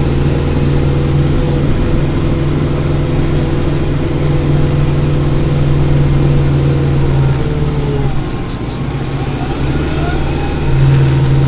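Kubota tractor's diesel engine running steadily, heard from inside the closed cab. Its note drops for a couple of seconds near the end, then picks back up.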